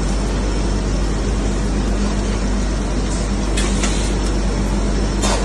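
Water chiller plant running: a steady machinery hum with a low drone and a constant tone, and a few short hisses in the second half.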